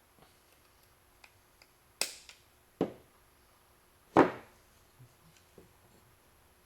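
Sharp knocks and clicks of hand tools and metal parts being handled while a steering column is worked on, three louder knocks about two, three and four seconds in, the last the loudest, with a few faint ticks between.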